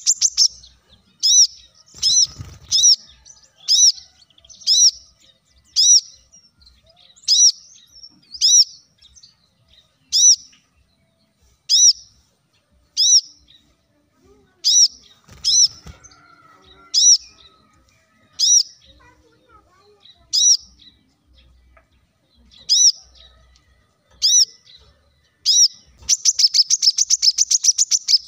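Brown-throated sunbird calling: sharp high chirps repeated about once a second, breaking into a fast twittering trill near the end.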